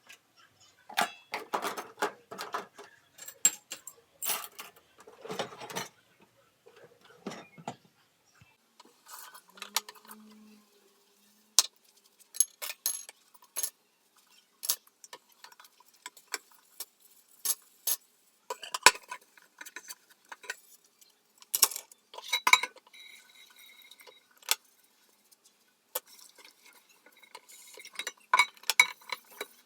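Dishes and cutlery clinking and knocking against each other as they are handled, in irregular bursts of short clatters with brief pauses.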